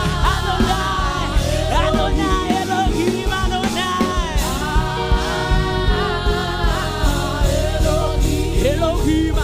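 Gospel worship music: a band playing steadily under a singer's bending vocal runs.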